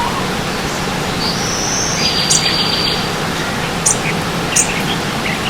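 Steady rush of stream water with wild birds calling over it: a high rising whistle, a rapid trill about two seconds in, then several short, sharp high chirps.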